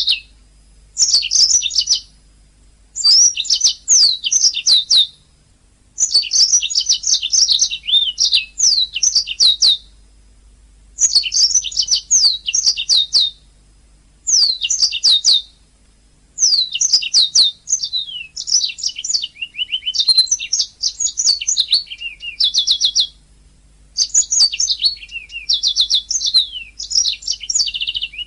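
Domestic canary singing in phrases of rapid, repeated high chirps and downward-sweeping trills. Each phrase lasts one to three seconds and is separated from the next by a short pause.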